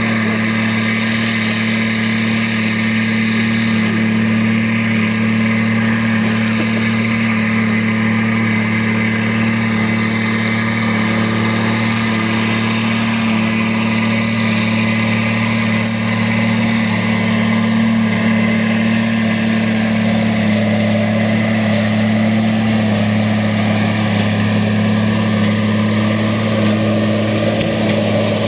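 Fendt 936 Vario tractor's six-cylinder diesel engine running steadily at even revs, driving a Claas Quadrant 5300 FC square baler.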